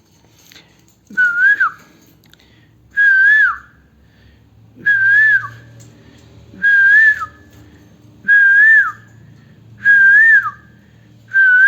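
The same short whistled phrase repeated seven times, evenly spaced a little under two seconds apart: each a held note that lifts briefly and then drops away.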